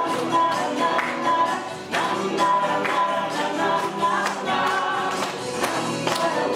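Music: a group of voices singing together over instrumental accompaniment with a steady beat.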